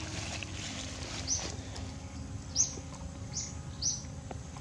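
A bird giving four short, high chirps, each falling slightly in pitch, spaced irregularly about half a second to a second apart, over a faint steady low hum.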